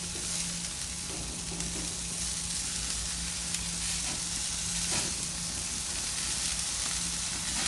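Chicken wings in a soy-sauce and Italian-dressing marinade sizzling on a grill: a steady hiss with a faint tick or two.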